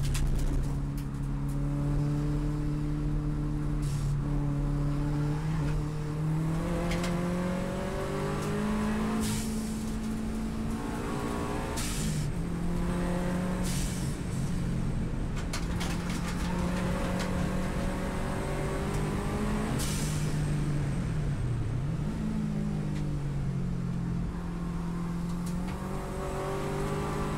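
Subaru WRX STI's turbocharged flat-four engine at racing pace, heard onboard. The revs climb and step down with the gear changes, with a deeper drop and recovery about three-quarters of the way through as it slows for a corner.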